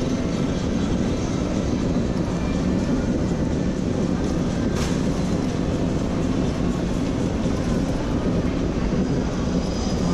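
Steady low rumble and road noise of a vehicle in motion, with one short click about five seconds in.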